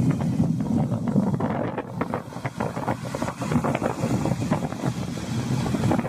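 Strong wind buffeting the microphone: a loud, gusting rumble that never lets up.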